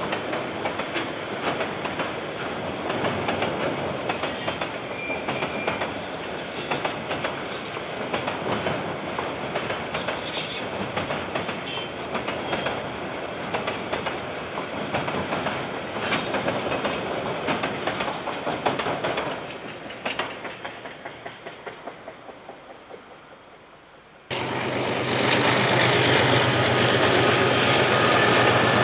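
Container freight train's wagons rolling past with steady wheel clatter over the rail joints, fading to a run of separate clicks as the last wagons go by. About 24 seconds in it gives way abruptly to a louder KiwiRail diesel locomotive passing, its engine a steady low drone under the rolling noise.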